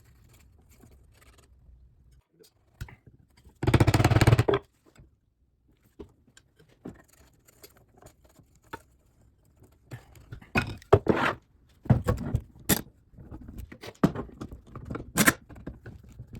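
Clamps and boards being handled during a wood glue-up: one loud scraping rush lasting about a second, about four seconds in, then from about ten seconds on a run of irregular clicks, knocks and scrapes.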